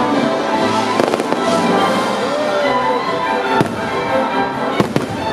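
Aerial fireworks shells bursting in a series of sharp bangs, two close together about a second in, another in the middle and a pair near the end, over the show's accompanying music.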